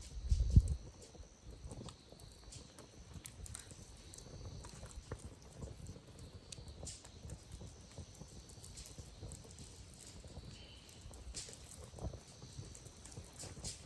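Wood campfire crackling, with scattered irregular pops, and a low thump about half a second in.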